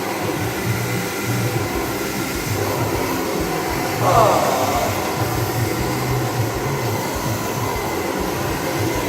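Hair dryer blowing steadily, with a brief louder, higher sound about four seconds in.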